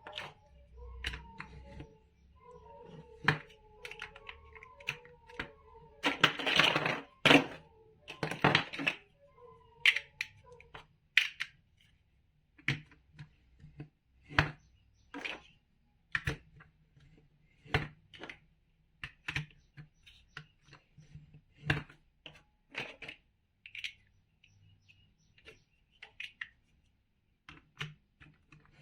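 Plastic toy building blocks being handled and pressed together: a long run of sharp, separate clicks and taps, with a longer rustle of pieces about six seconds in and again near nine seconds.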